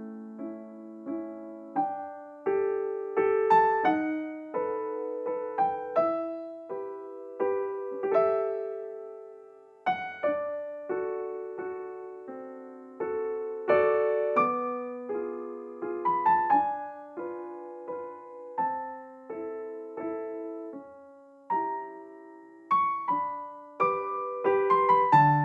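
Solo piano background music: a slow, gentle melody of struck notes and chords, each left to ring and fade.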